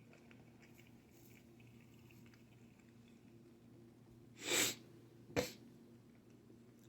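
A person sneezing about four and a half seconds in, followed a second later by a shorter, sharper burst of breath, over a low steady room hum.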